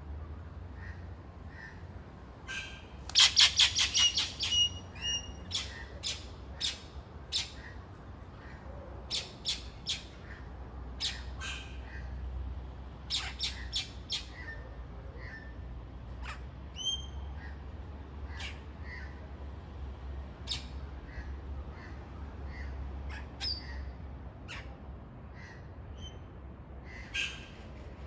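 Wild birds calling in eucalyptus trees: a loud, fast run of sharp, high notes about three seconds in, then scattered short, sharp calls every second or so, with a few brief whistled notes.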